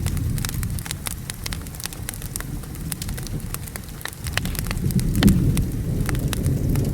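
Wood fire crackling with frequent sharp pops and snaps, over steady rain and a low thunder rumble that swells about four to five seconds in.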